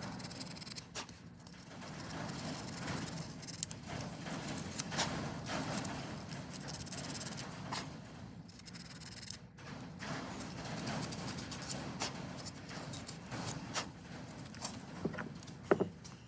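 Fine-grit sandpaper rubbed by hand over a carburetor part to clean it up: a steady scratchy rasp with short breaks, and a few sharp clicks near the end.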